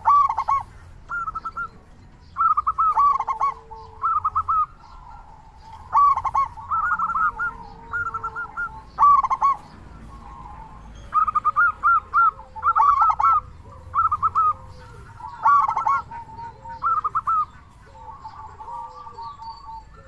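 Local zebra dove (perkutut) cooing in repeated short phrases of quick staccato notes, with pauses of a second or two between them. A fainter, lower bird call slides underneath.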